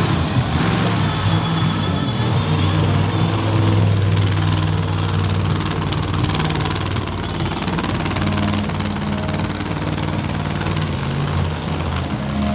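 Monster truck engines running steadily at idle, a deep even drone with no hard revving.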